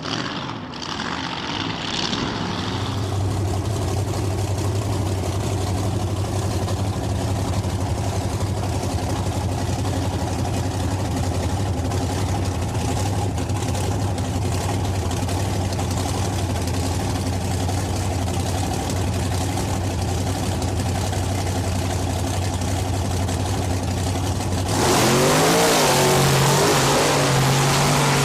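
Monster truck engine idling steadily with a deep, even note, then revving hard and much louder about 25 seconds in, its pitch rising and wavering.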